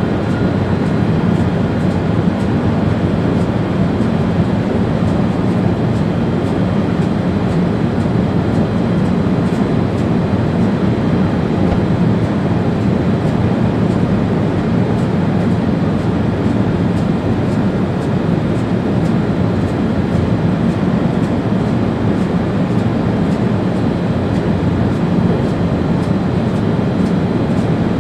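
ÖBB Railjet train running at speed, heard from the driver's cab as a steady, even rumble with no breaks.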